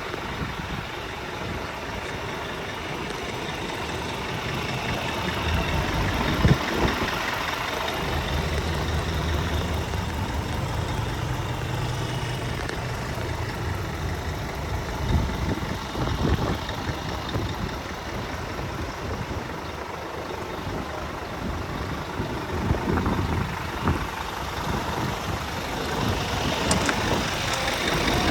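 Scania P320 tractor unit's diesel engine idling steadily, with a short sharp knock about six seconds in.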